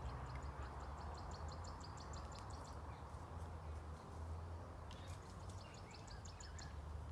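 A bird calling in two runs of rapid, evenly repeated high notes, about eight a second, the first lasting about two and a half seconds and the second starting about five seconds in. Under it runs a steady low outdoor hum.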